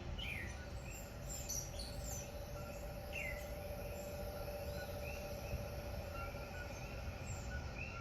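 Tropical rainforest ambience: birds calling, with a few short downward-sliding chirps, over a chorus of short, evenly repeated high calls and a steady background hum.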